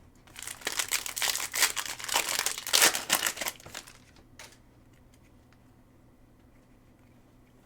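Plastic wrapper of a Panini Mosaic football hobby pack being torn open and crinkled by hand, a dense crackling lasting about three and a half seconds and loudest near the end, then stopping.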